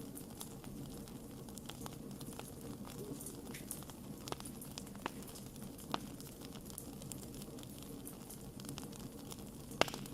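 Wood campfire crackling: scattered sharp pops and snaps over a low steady background, with one louder pop near the end.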